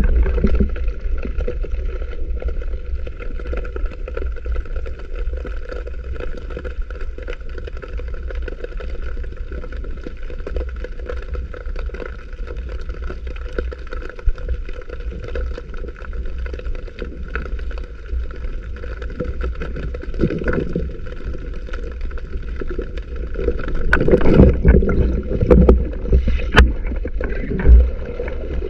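Sea water sloshing and gurgling around a diver's camera: a steady low rumble with rougher, louder splashy stretches near the end.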